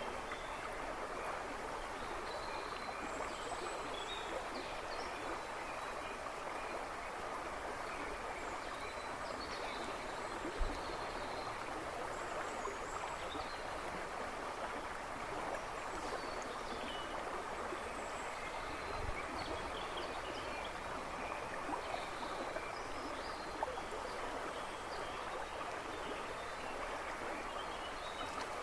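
River babbling and rushing steadily, with small birds chirping faintly and intermittently in the background.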